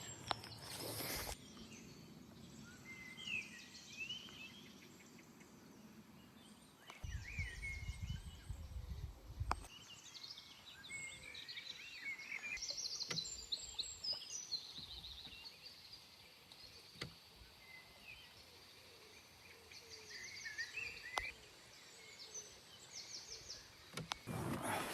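Small birds chirping and trilling on and off over a quiet outdoor background, with a brief low rumble a few seconds in.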